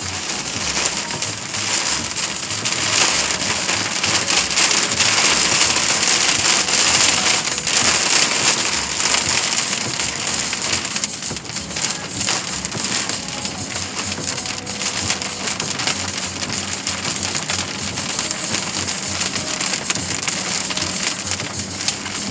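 Heavy thunderstorm rain pelting down on surfaces: a loud, dense hiss of countless small hits, a little louder in the first half.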